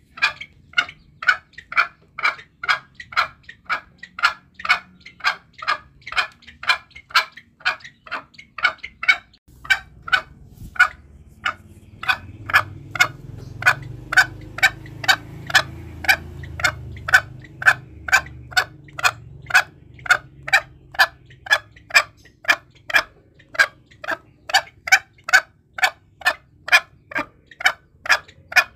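Green junglefowl calling: an even run of short, sharp notes, about two a second, with a brief pause near the middle. It is the kind of call played as a lure to draw wild junglefowl in for hunting.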